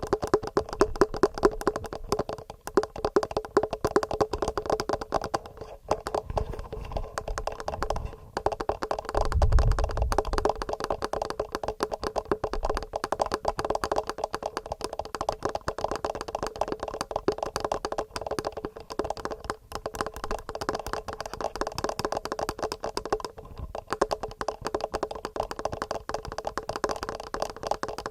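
Fingernails tapping rapidly and regularly on a TASCAM recorder's microphones and body: a dense, continuous run of quick clicks. There is a deeper low thump about nine seconds in.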